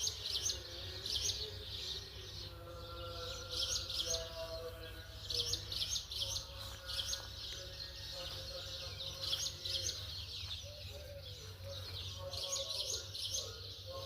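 Small birds chirping over and over in quick clusters of short, high notes, with a steady low hum underneath.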